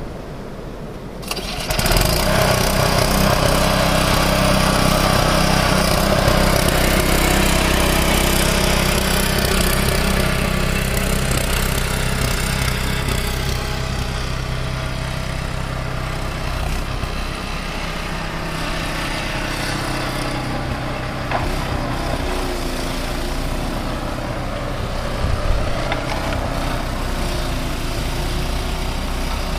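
Gasoline snow blower engine running steadily, coming in suddenly about a second in, then easing slightly quieter partway through.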